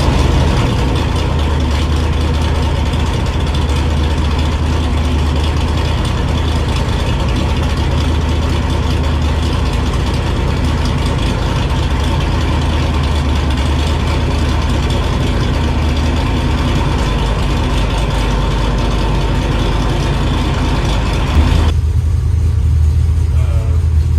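Stroked 7.0-litre (427 ci) iron-block LS V8 running steadily at a constant speed on an engine dyno, with a deep, even rumble. Near the end the sound abruptly turns duller, the low rumble carrying on.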